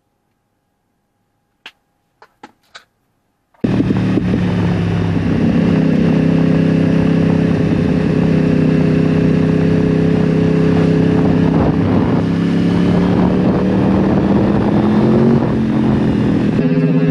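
A few faint clicks, then a motorcycle engine running loud and steady from about three and a half seconds in, its pitch creeping up slightly near the end.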